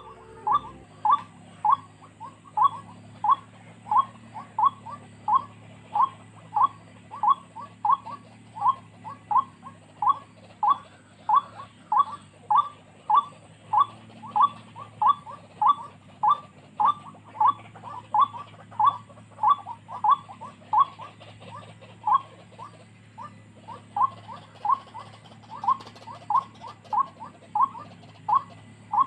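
White-breasted waterhen calling a monotonous repeated 'kruak' note, slightly under two a second, with a short break about three-quarters of the way through.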